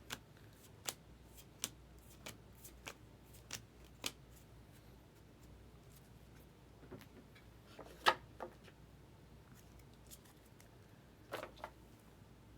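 Baseball trading cards being handled one by one, with a sharp little snap or click every half second or so for the first few seconds. Sparser clicks follow, with the loudest about two-thirds of the way in and another pair near the end.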